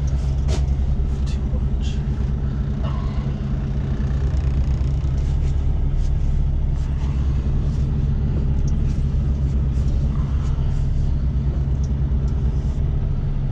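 Semi truck's diesel engine running at low speed, a steady deep rumble heard inside the cab while the truck creeps through a turn, with scattered faint clicks.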